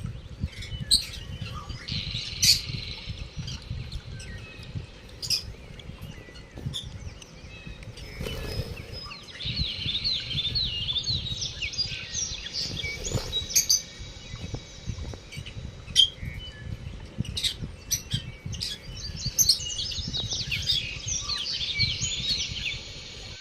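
Lovebirds chattering in three bouts of rapid, high twittering lasting a few seconds each, with scattered sharp clicks in between.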